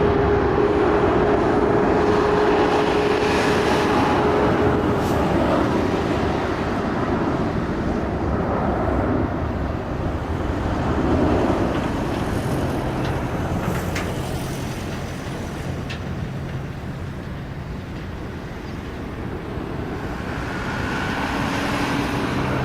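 Jet noise from an Airbus A380's four turbofan engines as it passes in a slow, low demonstration pass: a loud, steady rush with a held whine that fades after about five seconds. The rush dies down and then swells again near the end.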